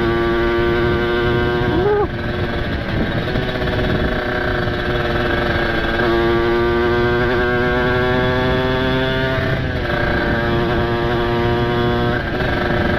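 Kawasaki Ninja RR two-stroke single with a ported engine and open exhaust, heard while riding. The engine note climbs and then drops about two seconds in, climbs steadily again and falls near the ten-second mark as the throttle is rolled off or a gear changes. Heavy wind rush on the helmet microphone throughout.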